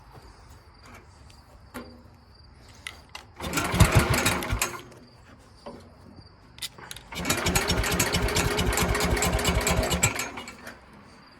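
Tecumseh engine of a 1967 Sears Super 12 garden tractor being cranked over on its starter-generator in two tries: it fires briefly a little over three seconds in and stops, then fires and runs unevenly for about three seconds near the end before cutting out. This is a hard cold start on an engine the owner calls a little cold-blooded. A few faint clicks come before the first try.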